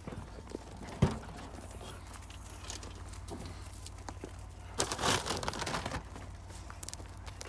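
A plastic bag crinkling and rustling while the dogs are fed. There is a sharp knock about a second in and a louder stretch of rustling about five seconds in.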